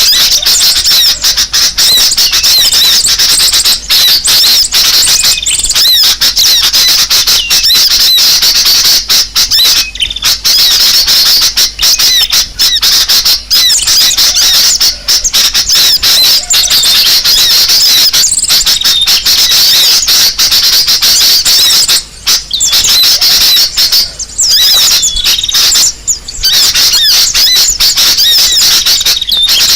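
Loud, unbroken chatter of many small birds chirping and squeaking at once, thick with rapid rising and falling high-pitched calls: a bird-lure recording of agitated, noisy birds.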